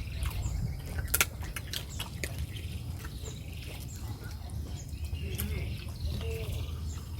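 Small birds chirping in the background, with a few sharp clicks, the loudest about a second in, over a steady low hum.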